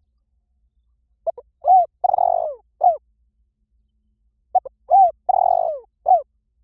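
Spotted dove cooing: two phrases a couple of seconds apart. Each phrase has a few short coos, a longer rolling coo, and a final coo that falls in pitch.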